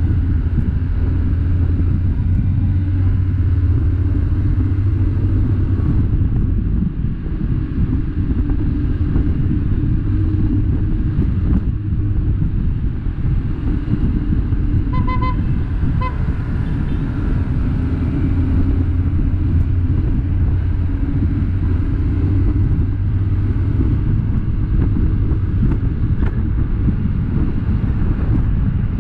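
Vehicle engine and road noise running steadily on the move, with a short horn beeping twice about halfway through.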